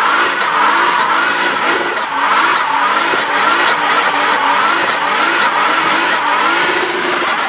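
Car engine revved over and over, its pitch climbing and dropping back about twice a second, with a high squeal rising and falling along with it.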